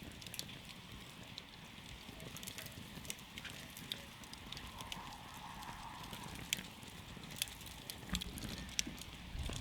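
Wood campfire crackling, with sharp pops scattered irregularly over the steady low hiss of the burning fire.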